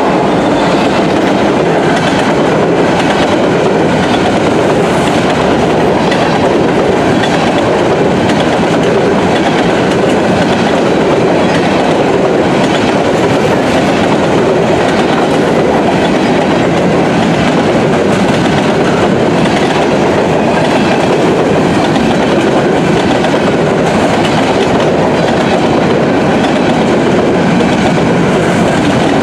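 Freight train of covered grain hopper cars rolling past close by: a loud, steady noise of steel wheels on rail with a repeating clatter from the wheel sets.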